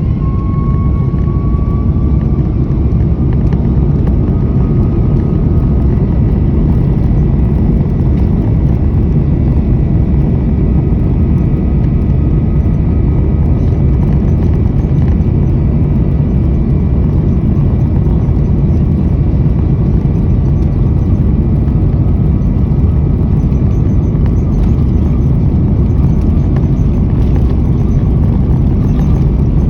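Jet airliner engines at takeoff thrust: a heavy, steady low rumble with a thin whine that rises slightly in pitch over the first couple of seconds and then holds steady.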